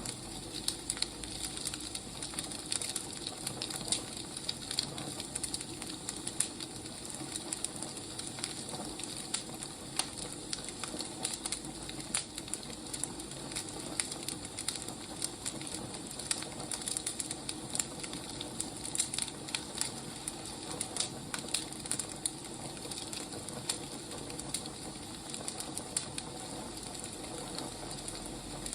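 Wood fire burning with steady crackling: a soft hiss peppered with frequent small pops and snaps.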